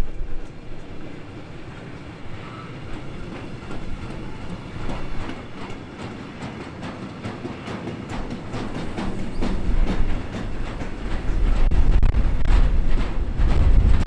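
Freight train of empty double-deck car-transport wagons rolling past, steel wheels clicking rhythmically over rail joints and points over a low rumble. The clatter grows louder in the second half as the wagons pass close by.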